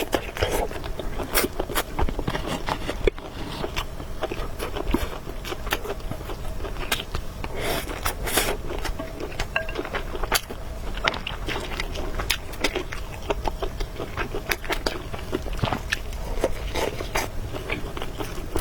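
Close-miked eating sounds of a person eating noodles and meatballs: irregular wet clicks and smacks of chewing, with a few longer slurping noises.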